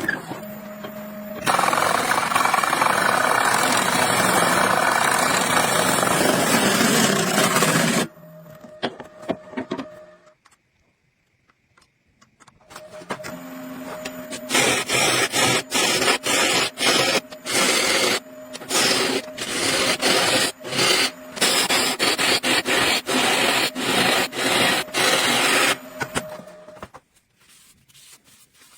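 Hand tools scraping and rasping on wood: first a long unbroken stretch, then after a short pause a stretch of rapid repeated strokes.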